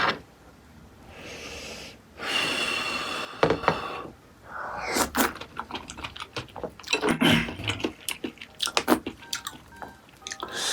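A person eating close to the microphone: chewing and short clicks of utensils against dishes. About two seconds in there is a longer noisy stretch lasting about a second.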